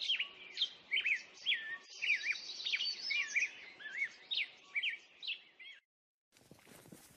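Birds chirping and singing, many short quick whistled notes that sweep up and down, over a faint hiss. The birdsong cuts off abruptly about six seconds in, and after a brief silence a different hissy background starts.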